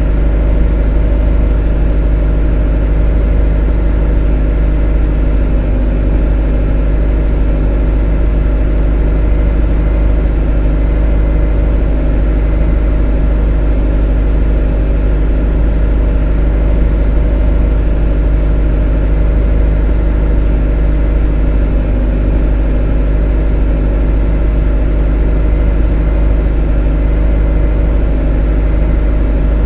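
A motor running steadily at a constant speed: a deep, loud hum with a steady droning tone above it, unchanging throughout.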